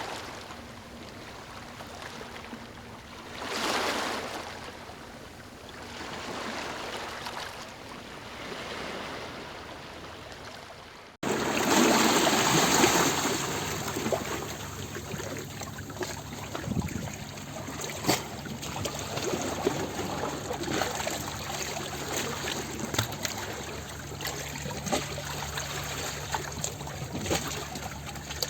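Water washing in slow, soft swells, like small waves lapping. About eleven seconds in it cuts to a louder, busier recording of a stream or brook trickling and babbling, full of small sharp splashes and drips.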